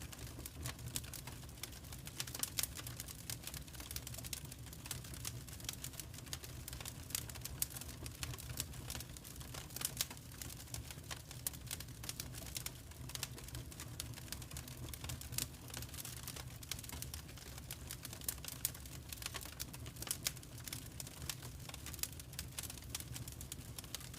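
Wood fire crackling: a dense, irregular run of small snaps and pops, a few louder than the rest, over a low steady rumble of the flames.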